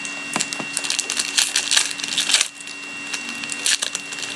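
Foil wrapper of a hockey card pack being torn open and crinkled: a quick run of sharp crackles for about two and a half seconds, then a few more near the end.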